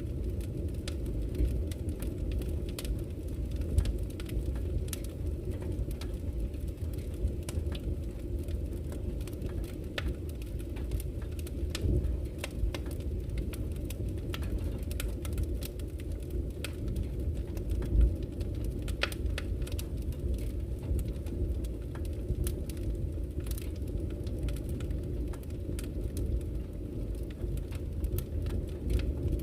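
Campfire crackling, with irregular sharp pops and snaps of burning wood and a couple of louder pops about 4 and 18 seconds in. Beneath it runs a steady low rush of flowing river water.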